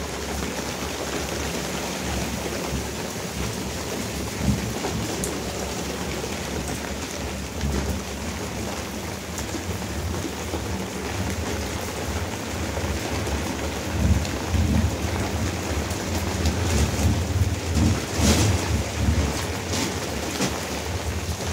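Heavy rain falling steadily, with a low rumble underneath that swells and comes in surges in the second half.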